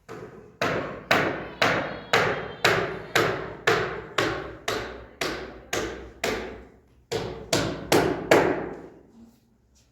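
A hammer striking steadily, about two blows a second, each blow ringing out briefly. After a short break about seven seconds in, four more blows follow.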